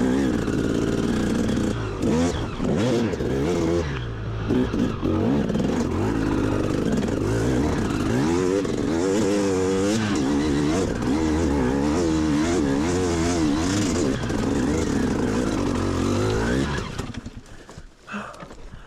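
Dirt bike engine running, its revs rising and falling as the throttle is worked, until the engine sound drops away sharply about two seconds before the end.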